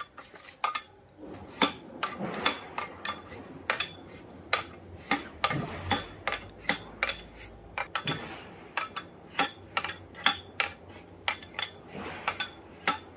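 Metal tools and steel differential parts clinking and tapping against each other in sharp, irregular strikes, about two or three a second.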